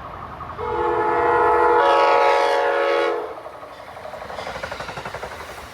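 Horn on an Amtrak cab car leading a Keystone train, sounding one long chord of several notes for about two and a half seconds as the train comes through the station. Steady rumble of the train's wheels on the rails throughout, with a rapid rhythmic rattle after the horn stops.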